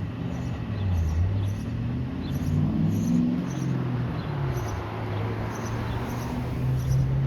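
Long Island Rail Road train running past, a low hum that shifts in pitch over a steady rumble.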